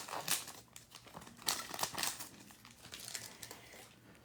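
Foil wrapper of a 2022 Bowman baseball card pack being torn and crinkled open by hand, in irregular bursts that die away near the end.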